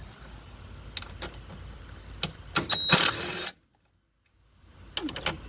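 Metal tool and bolt handling: sharp clicks and clatter, then a short loud rasping burst about three seconds in that cuts off abruptly, and a few more clicks near the end.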